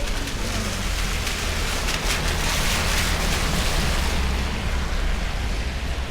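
Steady rain hiss with a low rumble underneath, the hiss swelling to its loudest in the middle and easing again toward the end.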